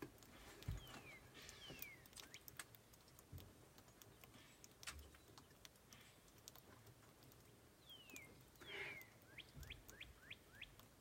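Faint bird calls over near silence: a few thin whistles that slide downward, then a quick run of short rising chirps near the end, with scattered faint clicks.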